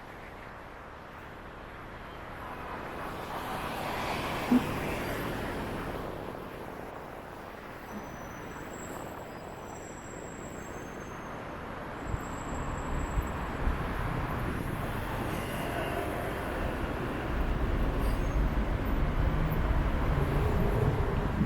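City street traffic: a vehicle passes a few seconds in, then a heavier low rumble builds from about halfway and is loudest near the end.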